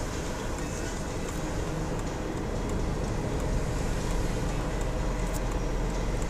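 Steady driving noise of a 1982 Jaguar XJ6 Series 3 under way: a low, even rumble of road and engine from its 4.2-litre straight-six.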